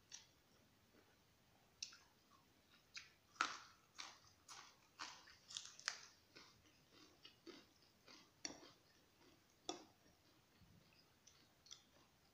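Close-up eating sounds: soft, wet smacking and chewing of a mouthful of egg noodles, heard as a run of short clicks that are busiest a few seconds in and thin out later.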